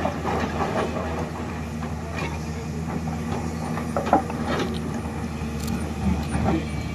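Excavator's diesel engine running steadily, with irregular metallic clanks and knocks over it, one louder clank about four seconds in.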